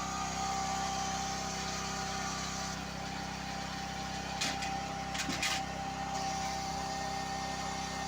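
An engine idling steadily with a steady whine above it, and a few short knocks or clatters about halfway through.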